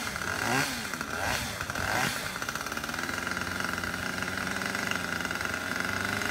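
Chainsaw revved up and down in three short throttle blips, then held running steadily at high speed.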